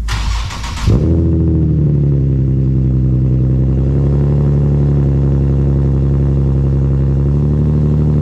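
Infiniti G37's V6 starting: about a second of cranking noise, then the engine catches with a short rise in revs and settles into a steady idle.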